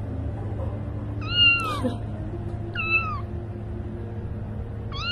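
Kitten meowing: two short, high-pitched meows about a second and a half apart, each bending up and then falling away, with a third just starting at the very end.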